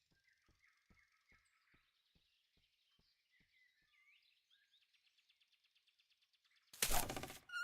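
Faint bird-like chirps over soft, regular ticking at about two or three a second, turning to a faster fine pulsing, then a sudden loud noisy burst lasting under a second near the end.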